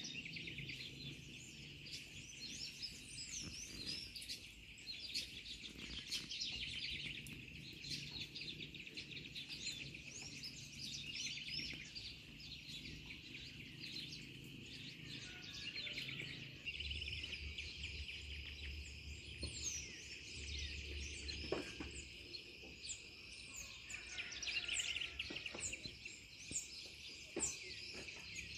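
Birds chirping and calling in many short, rising notes over a steady high-pitched chorus that runs throughout.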